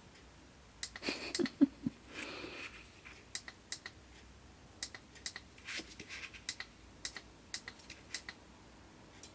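Light, irregular plastic clicks and taps from handling an auto-darkening welding helmet, with a short rustle of handling about a second in.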